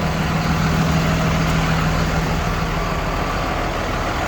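Blue Bird school bus engine idling steadily, a constant low hum.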